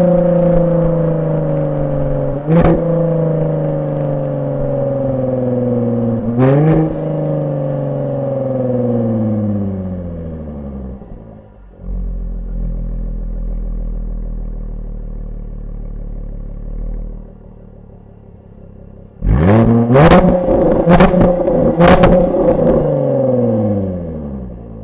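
Jaguar F-Type V6 S's supercharged 3.0-litre V6 through its factory exhaust in dynamic mode: the revs fall away steadily, broken twice by a sharp crack and a brief jump in revs, then settle into a low rumble. Near the end the revs flare up loudly and fall again with three sharp pops from the exhaust about a second apart.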